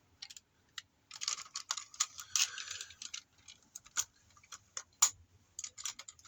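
Hard plastic clicks and rattles from the jointed parts of a transforming robot toy being unclipped and moved by hand, with a dense run of clicking between about one and three seconds in.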